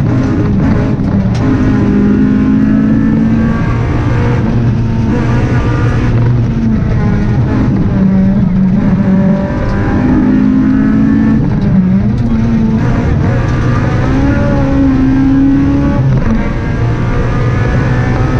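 Honda Civic Type R rally car's four-cylinder engine driven hard on a tarmac stage, heard from inside the cabin. Its pitch climbs and falls back several times as it runs up through the revs and drops between them.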